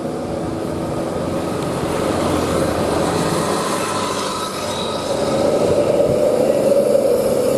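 A truck on the road, with steady high tones over its running noise, growing louder about five seconds in.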